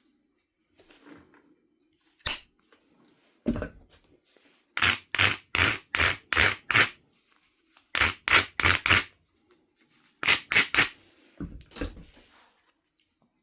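Flintknapping on a Knife River flint biface: sharp clicking strikes on the stone, two single ones and then quick runs of four or five strokes about two to three a second.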